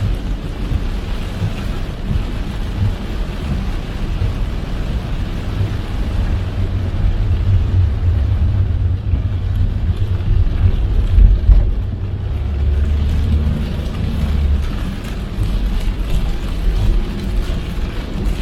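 Car driving in heavy rain: a steady low rumble of road and engine under a hiss of rain and wet tyres, the hiss thinning for a few seconds around the middle.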